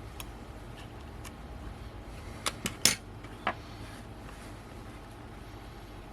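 Small tools and lens parts clicking and clinking on a work surface during hand disassembly of a camera zoom lens. A few faint ticks come first, then a quick cluster of sharp clicks about two and a half seconds in and one more a moment later, over a steady low hum.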